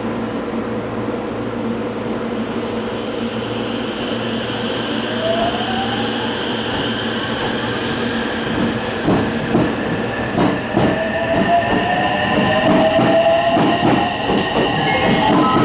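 Electric multiple-unit train pulling out of the station, its traction motors whining upward in pitch as it accelerates. From about nine seconds in, its wheels clatter over rail joints and points in a quickening run of knocks.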